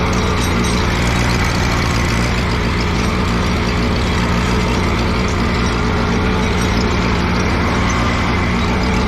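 Allis-Chalmers G tractor's small four-cylinder gasoline engine running steadily at raised throttle, under load as it pulls a cultivator through the soil.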